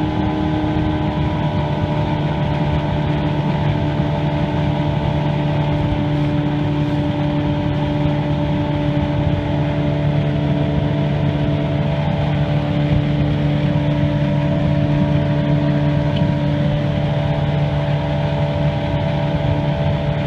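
Johnson 120 V4 loop-charged two-stroke outboard motor running steadily at one even engine speed.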